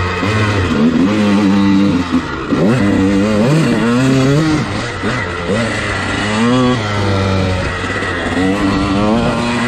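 Dirt bike engine running and revving, its pitch climbing and dropping several times.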